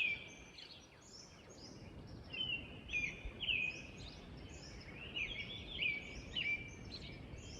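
A songbird chirping repeatedly in quick runs of short, sharp, falling notes, with a lull about a second in, over a steady low outdoor rumble.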